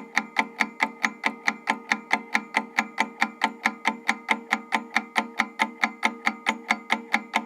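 Countdown-timer sound effect: a clock-like tick repeating rapidly and evenly, several times a second, with a slight pitched ring to each tick.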